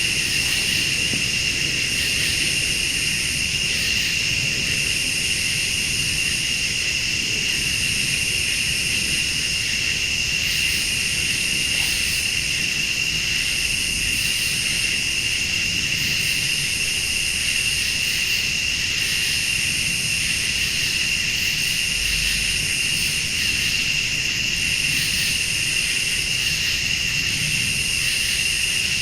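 A chorus of late-summer night insects: crickets keep up a steady high trill while a higher insect call pulses on and off about every second and a half. A low, even rumble lies underneath.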